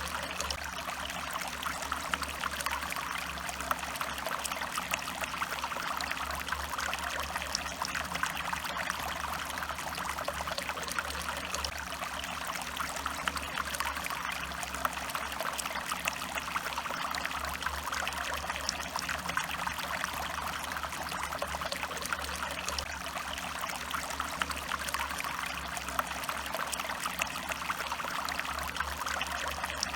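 Stream water running and trickling steadily, an even unbroken flow.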